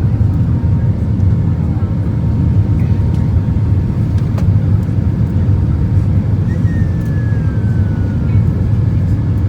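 Steady rumble of an airliner's jet engines and airflow heard inside the passenger cabin, with a faint whistle falling in pitch about seven seconds in.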